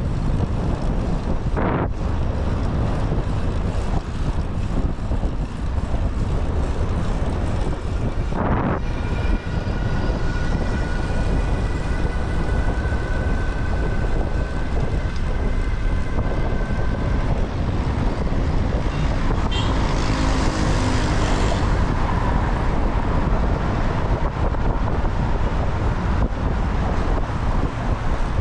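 Wind rushing over an action camera's microphone while cycling through city traffic, with vehicle noise around. A faint steady whine runs from about nine to seventeen seconds in, and a brief hiss comes about twenty seconds in.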